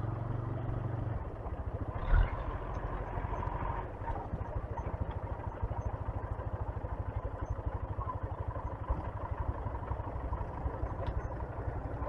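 Single-cylinder 125cc motorcycle engine running at low revs with an even firing beat, a short knock about two seconds in.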